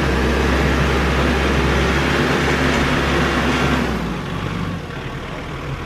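A motor vehicle engine running close by, steady and loud, easing off about four seconds in.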